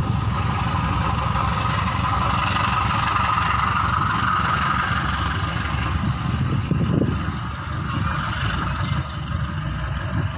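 A passing train running past with a steady rumble and a ringing rail noise, which eases off about seven to eight seconds in.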